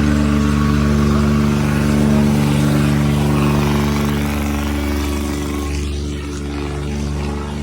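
Diesel tractor engines running steadily under heavy load during a tractor tug-of-war, easing slightly near the end.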